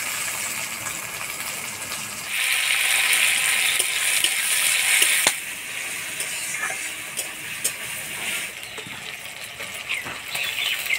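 Chopped tomatoes and onions sizzling in hot oil in a kadai while being stirred with a metal spatula. The sizzle grows louder about two seconds in and drops back about three seconds later. A few sharp clicks come from the spatula against the pan.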